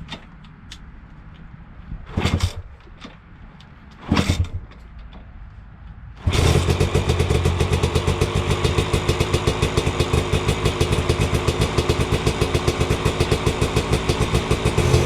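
KTM 300 XC two-stroke dirt bike engine being started for the first time after a top-end rebuild with a new piston: two short tries about two and four seconds in that don't catch, then it fires about six seconds in and keeps running with a fast, even pulse.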